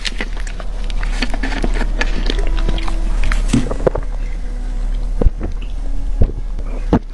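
Close-miked eating: biting and chewing food, a busy series of short, sharp clicks and snaps of uneven loudness.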